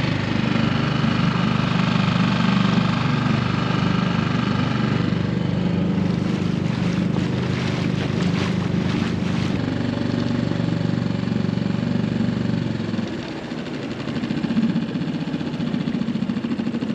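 Dinghy outboard motor running steadily under way, with a run of rapid knocks and splashes from about six to nine seconds in. About thirteen seconds in, the engine note drops away as the throttle comes off.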